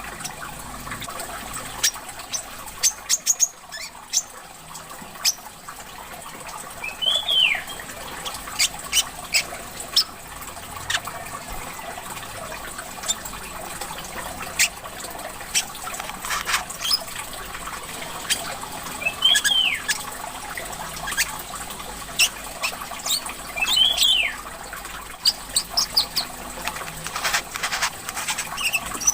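Brown-throated sunbird (korlap/mangar) calling: a busy run of sharp, high chips with three short down-slurred notes, over a steady trickle of water.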